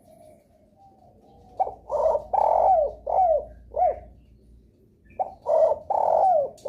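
Spotted dove (derkuku) cooing: two phrases of several rhythmic coos, starting about one and a half seconds in, with a pause between them. The longer coos end in a falling slur.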